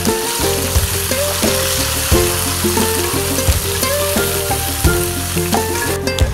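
Chopped tomatoes sizzling loudly in hot oil in a pan, a steady hiss that cuts off about six seconds in.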